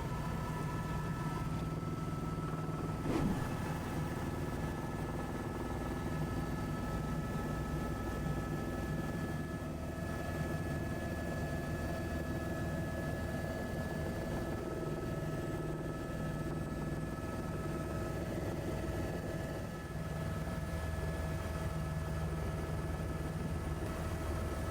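Helicopter in flight heard from the cabin: a steady drone of engine and rotor with several held tones, and a brief click about three seconds in.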